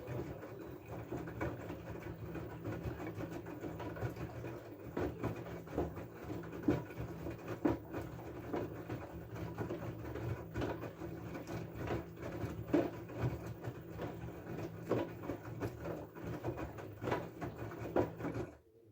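LG F12A8ND front-loading washing machine running a wash cycle: a steady low motor hum under irregular knocks and splashes of the laundry and water tumbling in the drum. The sound cuts off suddenly near the end.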